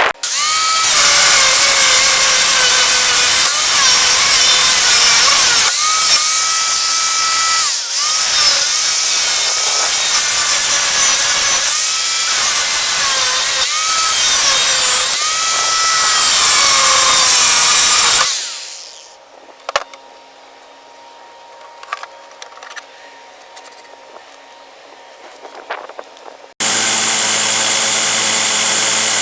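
Power tool cutting or grinding into saw-blade steel, its pitch dipping under load and recovering every couple of seconds. Partway through it gives way abruptly to a quieter steady motor hum, then near the end to another steady machine sound.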